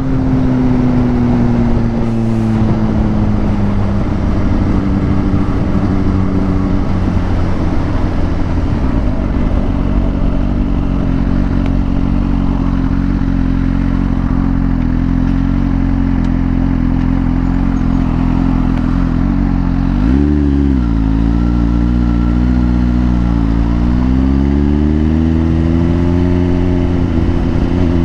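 Suzuki GSX-R sport bike engine running on the move, not yet fully warmed up. Its pitch falls over the first few seconds, holds steady, then dips and climbs again twice in the last eight seconds as the bike picks up speed.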